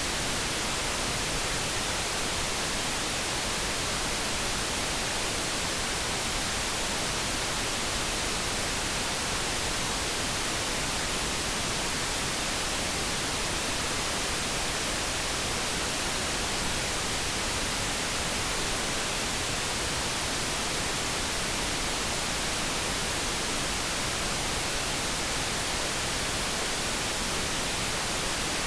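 Steady generated noise: an even hiss with no tones, clicks or changes in level.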